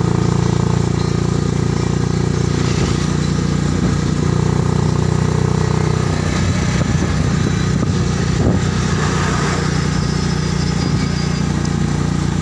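Motorcycle engine of a passenger tricycle running while riding along the road, with steady road noise. The engine note changes about halfway through, and there is a single knock about two-thirds of the way in.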